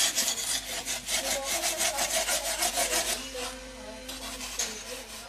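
Quick back-and-forth rasping strokes of a hand tool working material for a model wing, about five strokes a second, stopping about three seconds in and followed by a few fainter scrapes.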